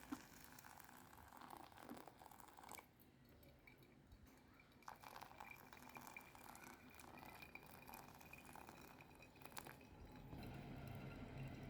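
Near silence with faint scattered light clicks and clinks of handling.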